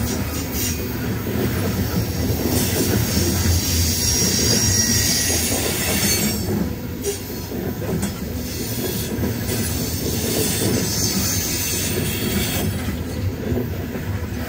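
Loaded CSX coal hopper cars rolling past on the rails: a steady rumble of wheels on the track, with a high wheel squeal at times, strongest a few seconds in.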